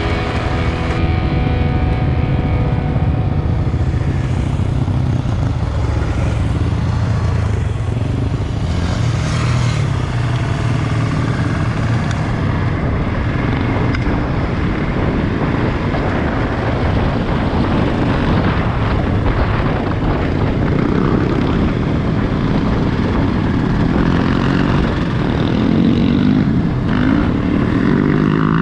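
Single-cylinder dual-sport motorcycle engine running under way on a dirt track, with its pitch rising and falling near the end as the throttle changes.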